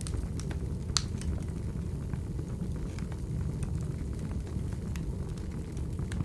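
Crackling wood fire: a low, steady rumble of flames with scattered pops and snaps, one sharp pop about a second in.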